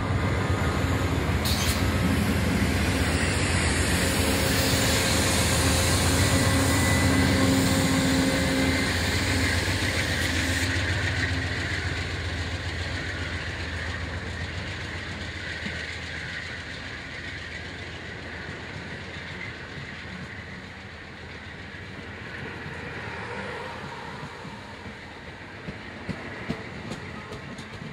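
Diesel-hauled train passing close by with engine and wheel noise, loud for the first nine seconds or so, then fading steadily as it moves away.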